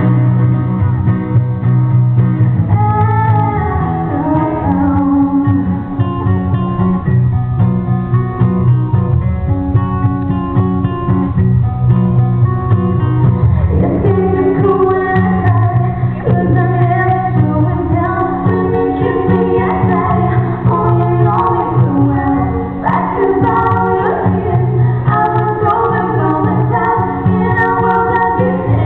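Live band performing a pop love song: female lead vocals with harmonies over guitar and a strong bass line, the sound dull and bass-heavy.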